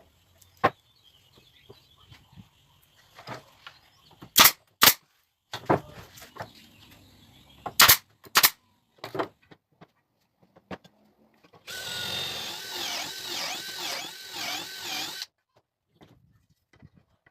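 Pieces of pallet wood knocked and set down several times, with loud sharp knocks about four and a half and eight seconds in. Then, near the end, a power drill runs for about three and a half seconds in a pulsing, wavering pattern and cuts off.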